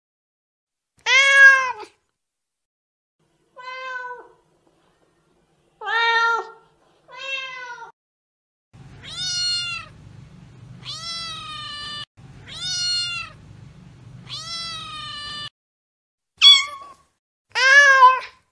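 Domestic cat meowing about ten times, each meow rising then falling in pitch, spaced one to two seconds apart. In the middle stretch a low purr rumbles under the meows.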